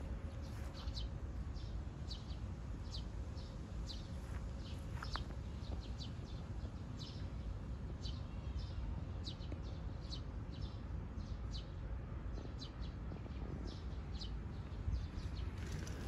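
Small birds chirping, short high chirps repeating irregularly, several a second at times, over a steady low rumble.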